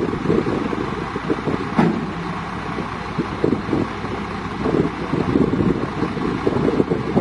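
Heavy diesel machinery running, with wind buffeting the microphone and a single sharp knock about two seconds in.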